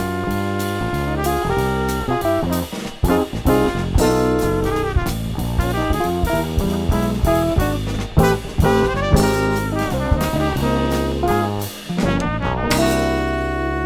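Jazz quartet playing: trumpet over guitar, bass and a drum kit, with frequent drum hits. Near the end the band lands on a long held note.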